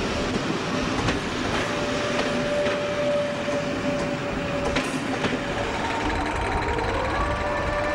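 InterCity passenger coaches rolling past, with wheels clicking over rail joints and a steady wheel squeal. After a cut about five and a half seconds in, a standing locomotive gives a low rumble and steady hum, with one tone rising in pitch a second later.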